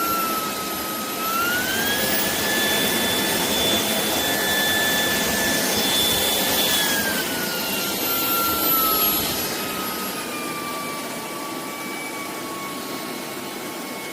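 Shark PowerDetect cordless stick vacuum running, its motor whine stepping up in pitch about a second in, holding, then sinking gradually from about seven seconds. The rise and fall is the automatic mode raising and lowering suction power as it detects more or less dirt.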